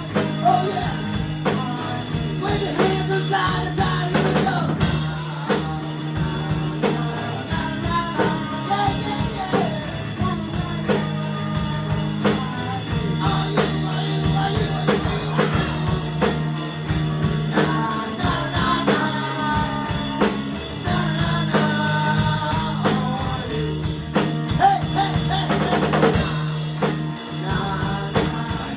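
Small rock band playing live: drum kit, guitar and bass under singing.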